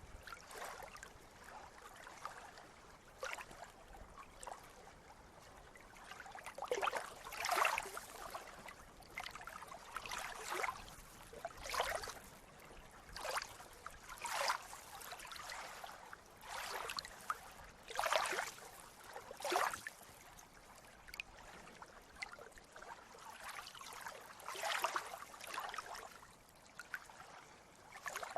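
Sea water lapping and splashing in small waves: irregular short splashes, about one every second or two, over a faint steady wash.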